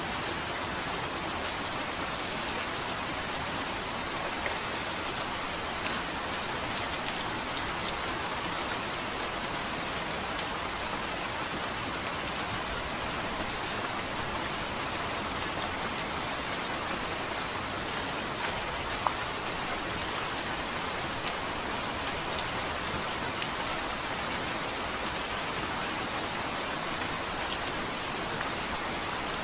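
Steady rain falling on a surface, an even hiss with scattered sharper drop ticks, one louder tick about two-thirds of the way through.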